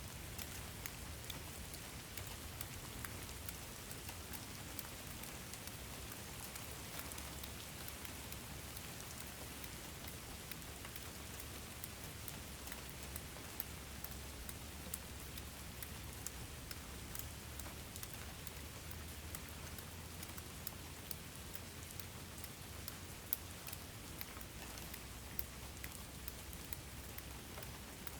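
Steady rain falling on a surface, with a constant hiss and many individual drops ticking distinctly on top, over a low rumble.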